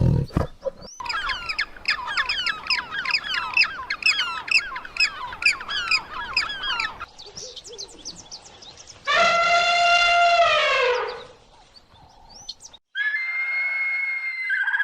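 A run of animal calls: about six seconds of rapid, sliding bird chirps, then one long pitched call that drops in pitch at its end, and near the end a shorter, higher pitched call.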